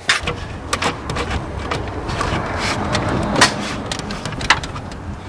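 Plastic intake manifold being wiggled and worked into place in a BMW X3's engine bay: scraping and rubbing with irregular sharp clicks and knocks of parts against each other.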